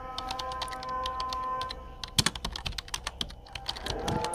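Heavy storm rain: many quick, irregular taps of drops striking a hard surface, over a low rumble.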